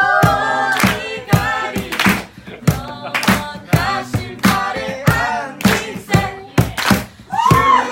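A mixed group of voices singing a worship song over a sharp, steady beat. The sung melody thins out in the middle and comes back strongly near the end.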